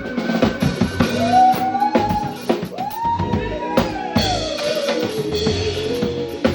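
Live band playing an instrumental passage: drum kit with kick and snare hits under a lead line that slides up and down in pitch.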